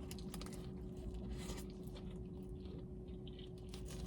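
A person chewing a mouthful of food close to the microphone, with soft, scattered wet mouth clicks over a faint steady hum.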